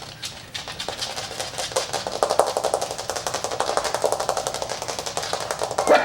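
Fingernails drumming rapidly on a plastic dog kennel: a fast, even patter of clicking taps, many a second, that grows louder about two seconds in. The sound is being made to catch the puppies' attention.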